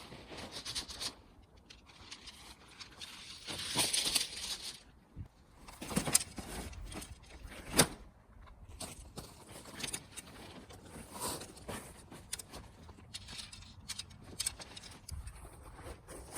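Handling noises: rustling with scattered light clicks and jangles, and one sharp click about eight seconds in.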